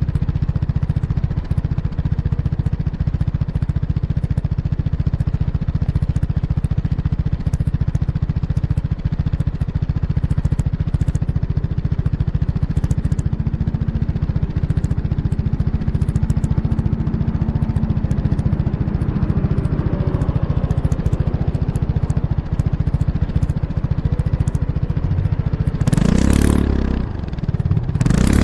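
Kymco X-Town scooter's single-cylinder engine through an Arrow Urban exhaust with the dB killer fitted, heard close up at the exhaust while riding: a steady, deep exhaust note, then near the end the throttle is blipped and the note rises and falls sharply before climbing again.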